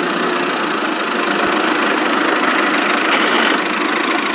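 Tractor engine sound running steadily as the toy mini tractor drives off, cutting in and out abruptly.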